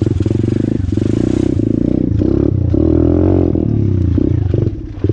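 Orion AGB 37 125cc pitbike's single-cylinder four-stroke engine running hard off-road, its revs rising and falling as it is ridden. It dies away near the end, and the rider blames the carburettor.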